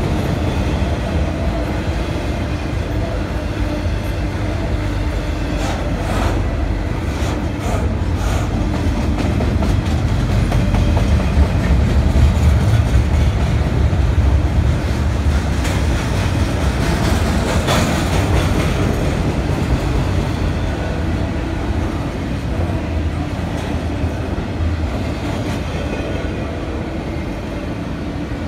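Double-stack intermodal freight train rolling past at a steady rumble of wheels on rail, with a few sharp clacks. It swells a little about halfway through.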